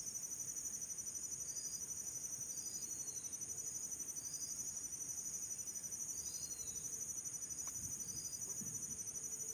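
Insects trilling in a steady, high, fast-pulsing chorus, with a short high chirp repeating about once a second.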